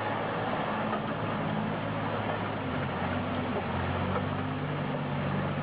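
A truck engine running steadily at a low, even pitch under a constant hiss of road noise.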